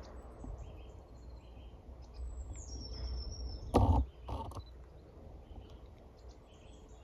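Faint woodland birdsong: scattered short high chirps and one thin whistle sliding downward. Two sharp knocks, half a second apart, come about four seconds in, over a low rumble.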